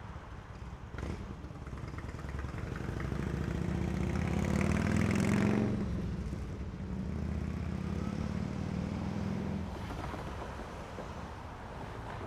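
A motor vehicle driving past on a suburban street, growing louder to its peak about five seconds in and then fading as it moves away, over steady street ambience. A short click about a second in.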